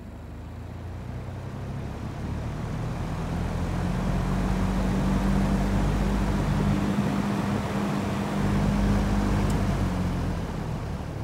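Vintage Knapp Monarch 20-inch metal box fan starting up: the motor hum and the rush of air from the blades build steadily for about five seconds as it spins up, then hold steady, easing off a little near the end.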